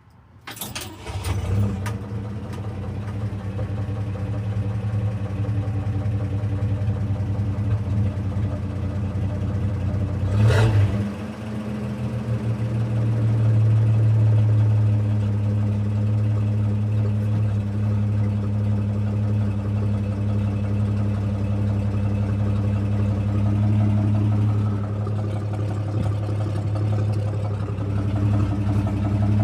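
Original, never-rebuilt factory engine of a 1962 Chevrolet C30 truck starting about a second in and then running steadily. There is a brief surge in level around ten seconds in, and the engine settles into a steadier, stronger run.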